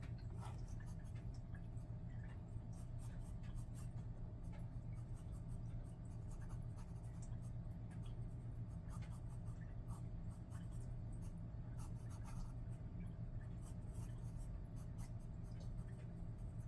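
Pencil scratching on paper in many short, quick strokes as it sketches and shades, over a steady low hum.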